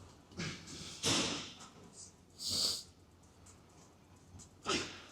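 A person breathing out hard in short bursts, four in a few seconds, the sharp exhales of someone straining through a set of reps.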